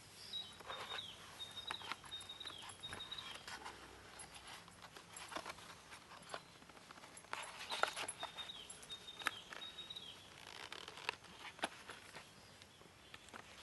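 Wood fire crackling in a Picogrill 498 fire pit: irregular sharp pops and snaps. There are two runs of short, high, thin whistles, one near the start and one around the middle.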